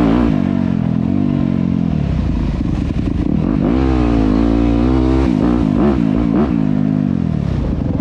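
Dirt bike engine running, its pitch rising and falling as the throttle is worked: a longer rev about four seconds in, then several quick throttle blips.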